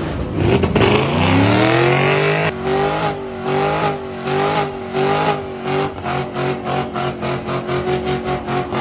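Car engine revving: it climbs in pitch over the first couple of seconds, then is held at high revs with a fast, even pulsing.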